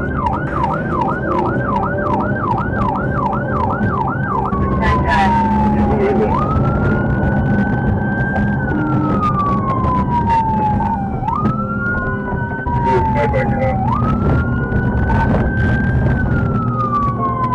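Police car siren on a cruiser starting a pursuit. It sounds a fast yelp of about two sweeps a second for the first four seconds, then switches to a slow wail that rises and falls over roughly five seconds, over the cruiser's engine and road noise.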